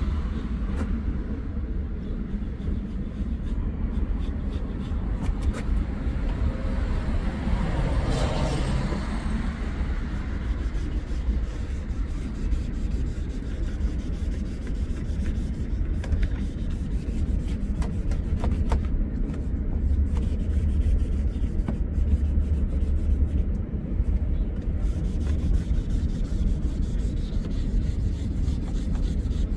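Cloth rubbing glass cooktop cleaner and polish over a car's plastic headlight lens, a steady scrubbing sound over a constant low rumble. A brief swell rises and fades about eight seconds in.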